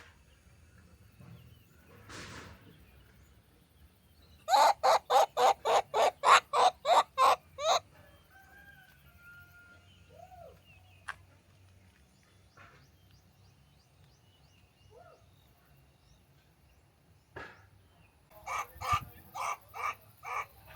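An animal calling in a quick run of about a dozen loud, evenly spaced calls, about four a second, then a second run near the end.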